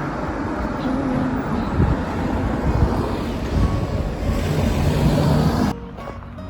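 Road traffic going by close to the microphone: a steady rushing rumble that cuts off suddenly near the end.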